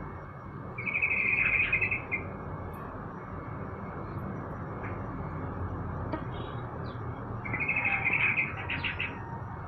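A caged songbird singing two short, rapid trilled phrases about six seconds apart, with a few brief chirps between, over a steady low background rumble.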